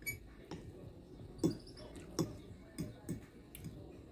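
Close-up eating sounds: irregular wet clicks and smacks of chewing, about eight in a few seconds, the loudest about a second and a half and two seconds in.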